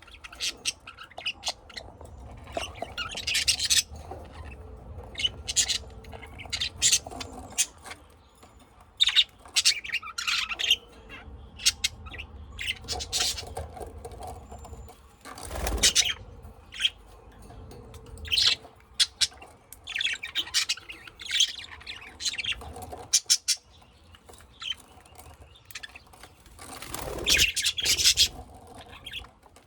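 Pet lovebirds and budgies chirping and squawking, short high calls coming in irregular clusters, with one brief louder rustle about halfway through.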